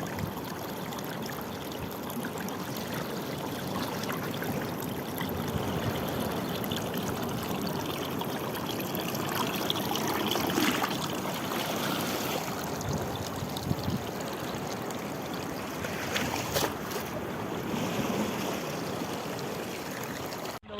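Sea water rushing and trickling in a steady wash, with small splashes now and then.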